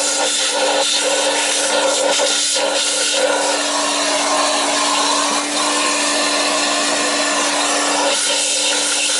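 Vacuum cleaner running steadily, sucking up dust, with a constant motor hum under the rush of air and small changes in the sound as it picks up debris.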